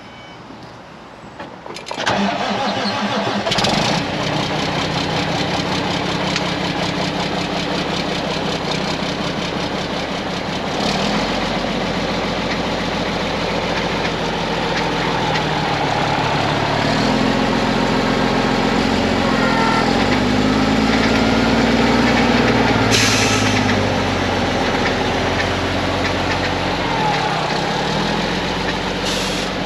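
The Mack diesel engine of a 2006 Mack CV713 roll-off truck running loudly to drive the hydraulic roll-off hoist, its pitch stepping up and down as the body is worked and rising for several seconds in the middle. Short hisses sound about three seconds in, about two-thirds of the way through, and near the end. The engine is one that the seller says misses and smokes.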